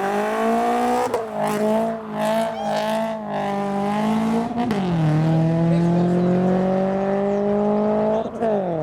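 Subaru BRZ's flat-four engine pulling away under acceleration. Its note climbs steadily through the gears and drops at upshifts about a second in, around four and a half seconds in, and near the end.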